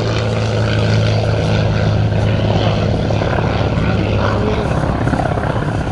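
North American P-51D Mustang's Rolls-Royce Merlin V-12 engine and propeller in flight, a steady loud drone.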